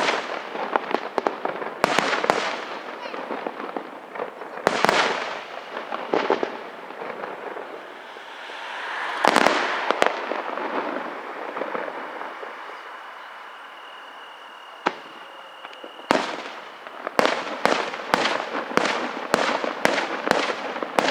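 Aerial fireworks display: single shell bursts with crackling tails, a swelling rush that peaks about nine seconds in, then a steady high whistle, and over the last five seconds a rapid string of bangs.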